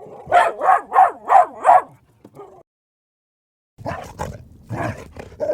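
Dog barking: a quick run of five barks in under two seconds, then after a short pause a second, less regular burst of barking.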